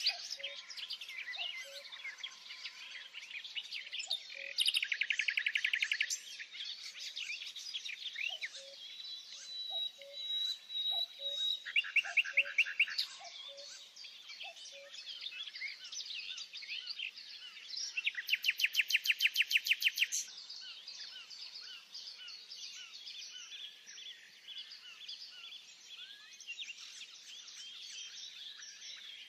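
Several songbirds singing at once, with many short chirps and whistles. Three loud, rapid trills stand out, about five, twelve and eighteen seconds in.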